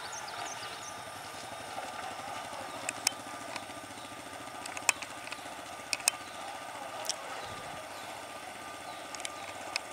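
Faint steady rumble of a distant diesel passenger train approaching along the track, with a few scattered sharp clicks.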